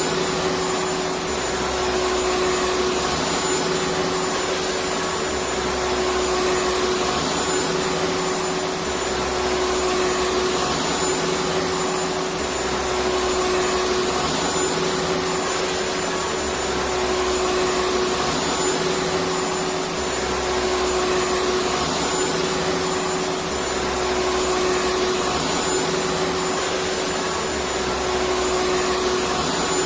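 Vacuum cleaner running steadily: a continuous rushing drone with a steady humming tone, and a low throb that comes and goes every few seconds.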